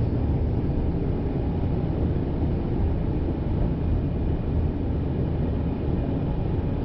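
Kyoto Municipal Subway Karasuma Line train running between stations, heard from inside the car as a steady low rumble of wheels on rail and running gear.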